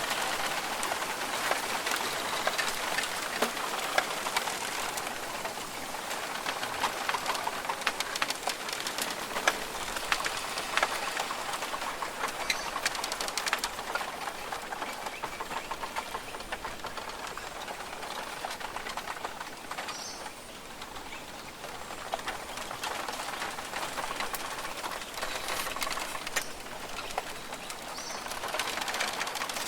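Rainforest birds calling over a steady, dense hiss.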